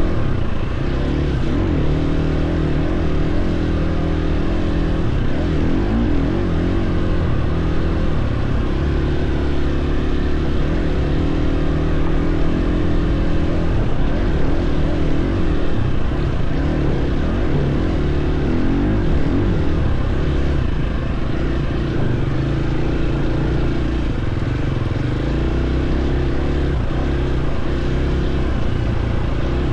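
Dirt bike engine running loud and steady while being ridden along a trail, its pitch rising and falling with the throttle.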